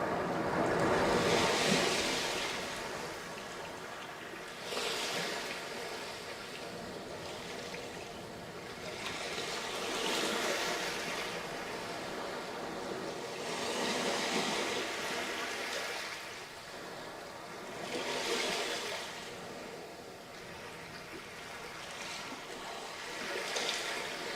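Sea waves breaking on a sandy beach, surging and washing back about every four seconds, some six times over.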